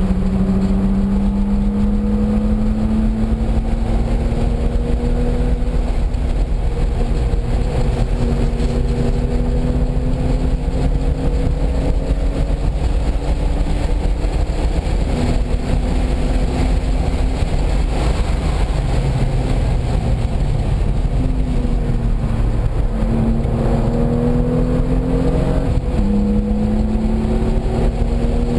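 Car engine at full throttle on a race track, its pitch climbing steadily under acceleration, with several sudden drops in pitch as gears change, over heavy road and wind rumble.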